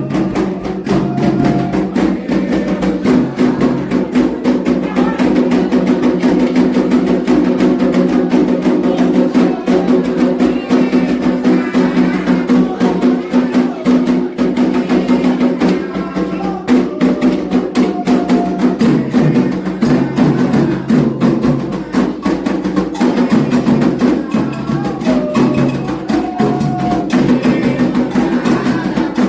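Candomblé ritual drumming: atabaque hand drums beating a fast, steady rhythm, with a clanking bell keeping time and voices chanting over it. The rhythm is a toque for Iemanjá.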